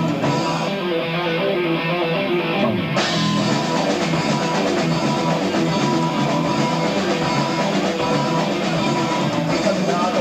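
Live rock band playing an instrumental passage on an amateur tape recording, with electric guitar, bass and drums. About three seconds in, a cymbal crash brings in a fuller, louder section.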